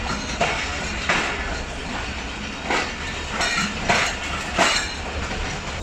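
Passenger train coaches rolling through the station, their wheels clacking over rail joints at irregular intervals, about six clacks, against a steady rushing noise.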